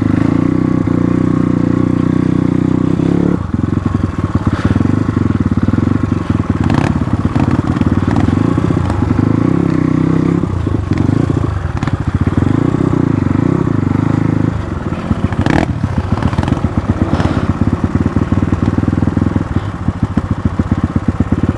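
Motorcycle engine running under changing throttle as it rides over a rough, broken dirt track, with a few sharp knocks and clatter from the bike jolting over the surface.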